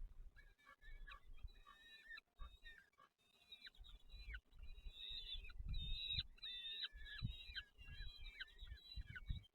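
Nestlings cheeping in the nest, a rapid run of short high chirps that mostly sweep downward, growing busier about halfway through, over low bumps and rustling.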